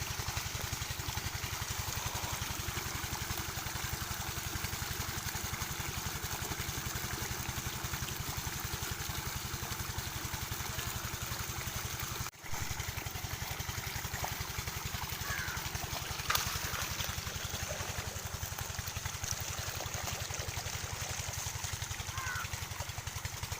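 Diesel engine of an irrigation water pump set running steadily at an even, fast beat, with a momentary break about halfway.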